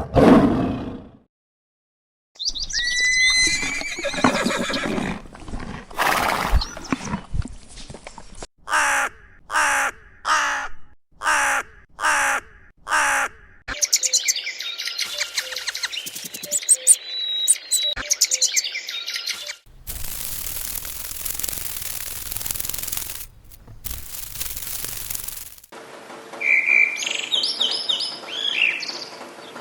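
A sequence of short bird-call recordings. It includes gliding calls, a run of about eight short calls at roughly two a second, a stretch of busy chirping, and high calls near the end. Partway through there is about six seconds of steady hiss, and the tail of a loud animal roar dies away in the first second.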